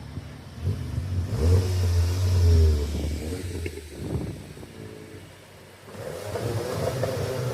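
Car engines revving as cars pull away and drive past: one car is loudest about a second and a half in and fades by about four seconds, then a second car's engine builds from about six seconds.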